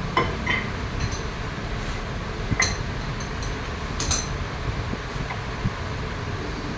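Several sharp metallic clinks with a bright ring, as steel tools or parts are handled and knocked together, over a steady low machine hum.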